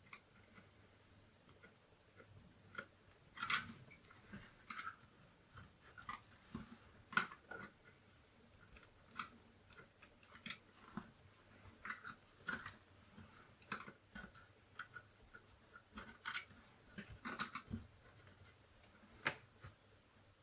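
A tool prying a chip out of its socket on a Commodore 64 motherboard, giving irregular small clicks and scrapes.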